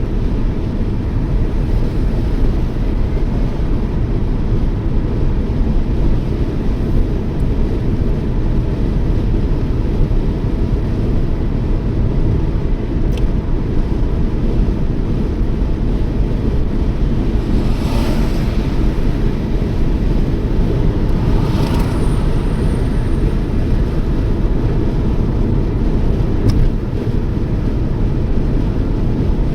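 Steady low rumble of road and wind noise from a Toyota Yaris driving at speed. Two brief hissing swells come through about two thirds of the way in.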